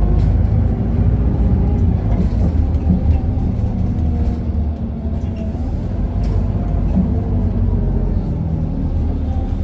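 Isuzu Erga city bus heard from inside the cabin: its four-cylinder diesel engine running with a steady low rumble and faint wavering whine.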